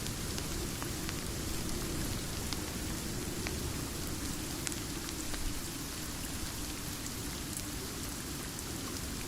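Steady rain falling, with scattered faint ticks of drops through an even hiss.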